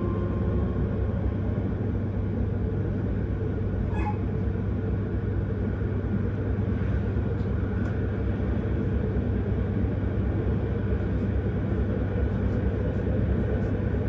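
Electric S-Bahn commuter train running between stations, heard from inside the carriage: a steady rumble of wheels on the rails. A faint motor whine fades out in the first second, and a brief squeak comes about four seconds in.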